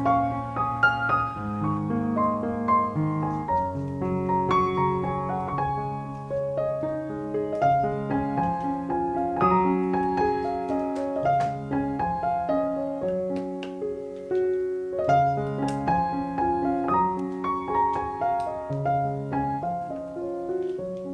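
Background piano music: a slow melody of held notes over low bass notes.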